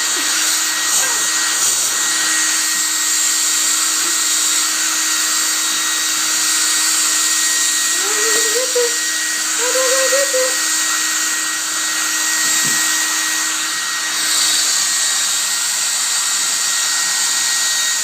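Handheld hair dryer running steadily, a loud even rush of air with a thin high whine. Two short rising voice-like sounds come about eight and ten seconds in.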